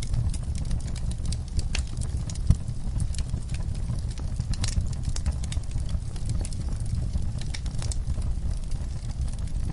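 Wood fire burning in a fireplace: irregular crackles and pops over a steady low rumble of the flames, with one sharper pop about two and a half seconds in.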